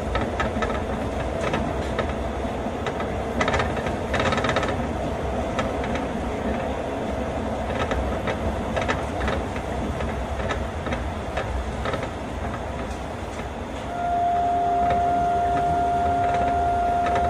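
Ride noise inside an Astram Line 6000-series rubber-tyred automated guideway train: a steady rumble with scattered knocks and clicks. About fourteen seconds in, a steady high tone starts and holds to the end.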